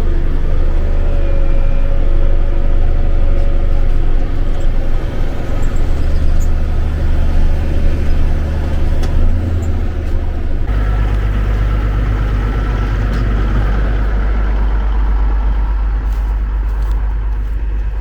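Tractor diesel engine running steadily, its low note changing abruptly about nine and again about eleven seconds in.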